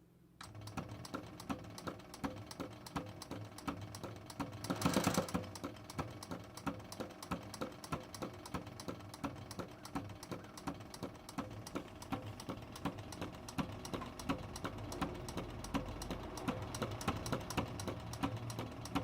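Consew 206RB walking-foot, triple-feed industrial sewing machine running slowly on its servo motor, its needle bar and walking-foot mechanism clicking in a steady rhythm of several clicks a second. There is one brief, louder rushing noise about five seconds in.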